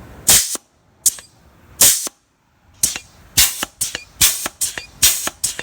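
ATS 675A strut pump's slide valve being worked back and forth to push shop air into an aircraft nose gear oleo strut, giving short, sharp hisses of air. They come about a second apart at first, then quicken to two or three a second.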